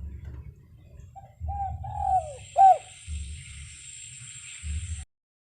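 Spotted dove cooing: a phrase of a few short coos, the last loud and falling in pitch. Low rumbling runs underneath, and the sound cuts off suddenly about five seconds in.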